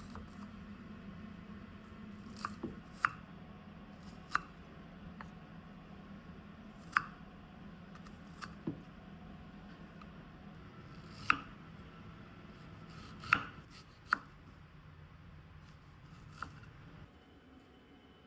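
Kitchen utensils knocking sharply, about nine irregular knocks, over a steady low hum that stops shortly before the end.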